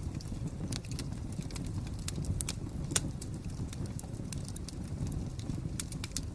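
Wood fire crackling: irregular sharp pops and snaps over a steady low rumble of the flames, with one louder pop about three seconds in.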